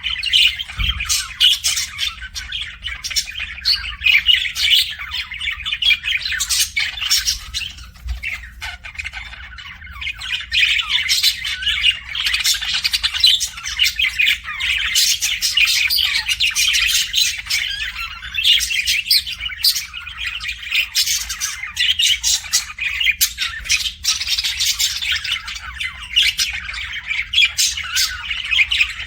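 Many small pet birds chirping and squawking together in a dense, continuous chatter of quick overlapping calls, with a faint low hum underneath.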